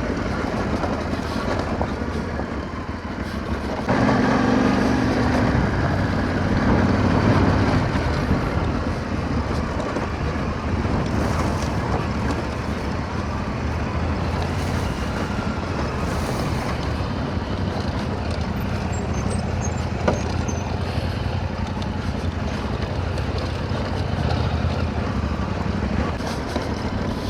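Motorcycle engine running steadily under way, with its low drone growing louder about four seconds in.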